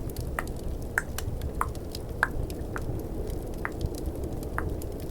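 Tongue clicks made close to the microphone: about seven short wet pops, roughly one every half second. Underneath runs a steady low rush of snowstorm ambience with faint fireplace crackle.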